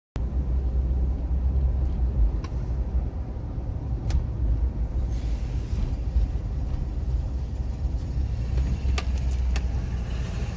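Train rolling by with a heavy, steady low rumble, broken by a few sharp clicks.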